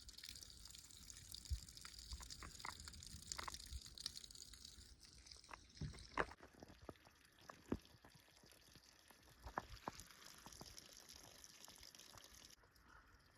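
Faint trickle of water with scattered drips as an electric water heater tank drains through a garden hose from its drain valve.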